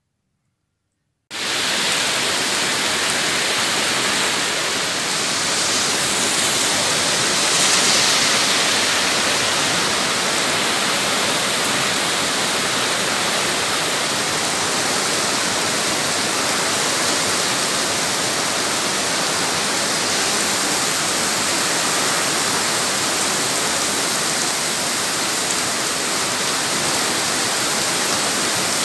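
Heavy downpour of rain beating on a paved street, a dense steady hiss that starts abruptly about a second in.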